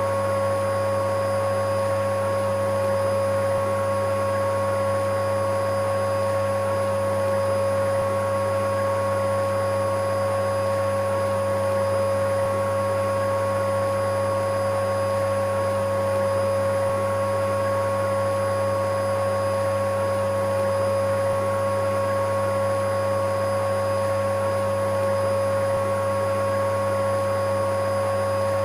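Vacuum cleaner running steadily: a continuous motor hum with a steady whine over a rushing noise, unchanging in pitch and level.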